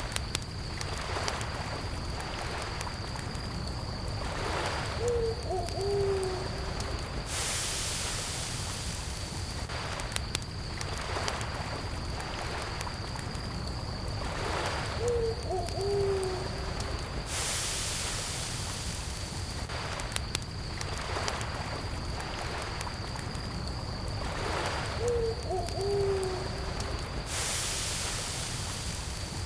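Layered night ambience: a campfire crackling over a steady low rumble, a high steady cricket trill, and lake water lapping in soft swells every few seconds. An owl hoots three times, about every ten seconds, and a brief rush of hiss also comes about every ten seconds.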